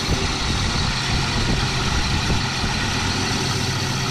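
1964 Dodge Dart GT's slant-six engine idling steadily while warming up, with all cylinders firing. The idle stays high because the throttle is sticking; an added return spring is not enough to bring it down, and the carburettor side is suspected of being sticky.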